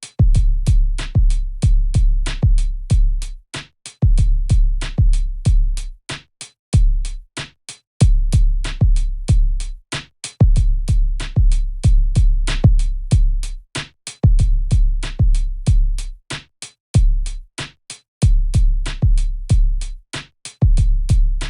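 Hip-hop drum-machine beat without vocals: sharp hits about four a second over a deep sub-bass that drops out every few seconds. It cuts off suddenly at the end.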